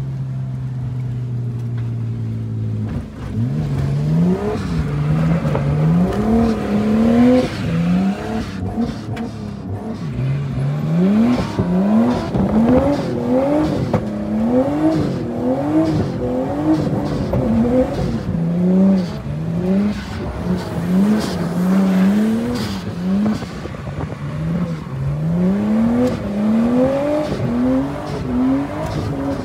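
Drift car's engine holding a steady note for a few seconds, then revving up and falling back again and again, about once a second, as the car is driven sideways in a drift.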